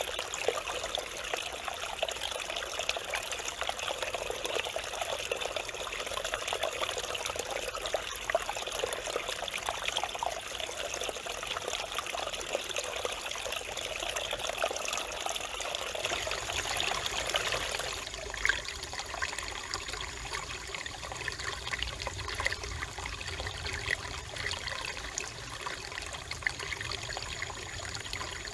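Mountain stream flowing and trickling over rocks, a continuous splashing babble. About two-thirds of the way in the sound changes suddenly to a softer, lower rush.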